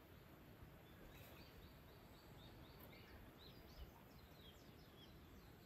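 Near silence: faint outdoor background, with a faint run of short, high bird chirps, several a second, from about a second in.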